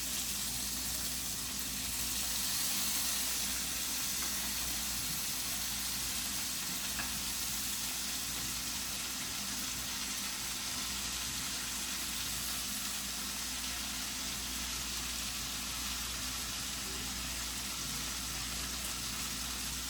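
Chicken frying in a hot pot, a steady sizzle.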